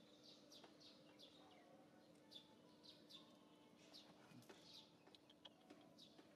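Faint bird chirping: short, high chirps repeating every half second or so, over a faint steady hum.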